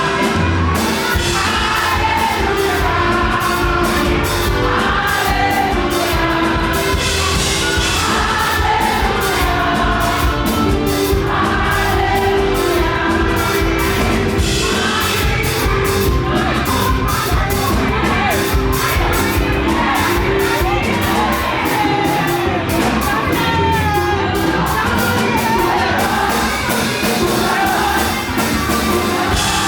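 Live fast gospel praise music: singing voices over a fast, driving beat, with a crowd shouting and whooping along.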